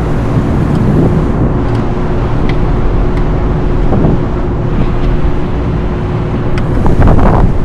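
A steady machinery hum with wind buffeting the microphone, and a few light clicks and rustles of wire connectors being handled, more of them near the end.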